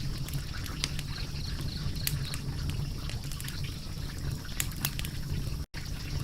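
Wood fire crackling: irregular sharp pops and snaps over a low, steady rumble of burning. The sound cuts out for an instant near the end.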